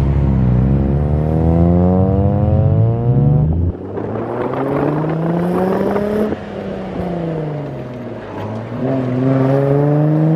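Sports car engine revving hard under full acceleration. Its pitch climbs, drops sharply as it changes gear, and climbs again; later it falls before rising once more.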